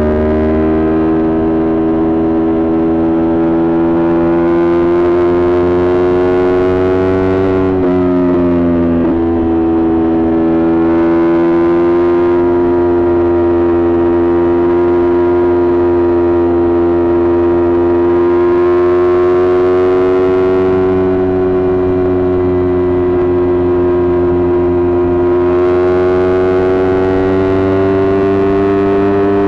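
Kawasaki Ninja 400's parallel-twin engine through a Coffman exhaust, running at steady revs with the pitch wandering slowly up and down. About eight seconds in the revs drop sharply, then pick up again.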